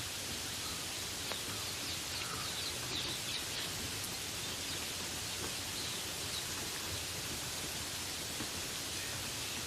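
Steady rain falling in a forest, with a few faint bird chirps over it.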